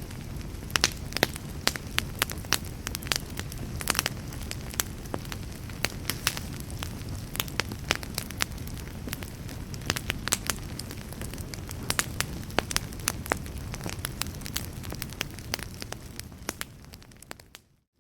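Fire crackling: frequent sharp, irregular pops and snaps over a steady low rush of burning. It fades almost to silence just before the end.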